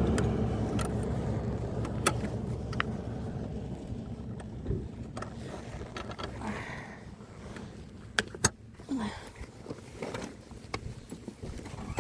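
A low engine-like rumble that fades over the first few seconds, with scattered sharp clicks and knocks, including a quick pair near the middle.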